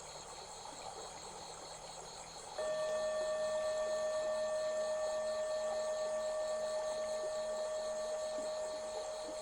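Crickets chirring steadily, and about two and a half seconds in a loud steady ringing tone starts suddenly and holds, fading only slightly.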